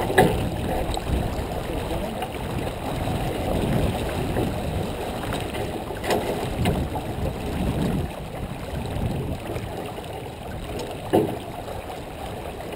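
Wind buffeting the microphone and water rushing along the hull of a J24 sailboat under way, with a few sharp knocks on deck just after the start, about six seconds in and about eleven seconds in.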